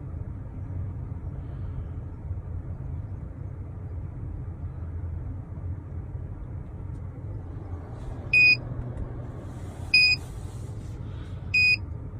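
Three short, high-pitched electronic beeps, about a second and a half apart, from a Tornado Tuning T-BOX plugged into the car's OBD2 port, signalling that it has finished its job and is safe to remove. A steady low rumble runs underneath.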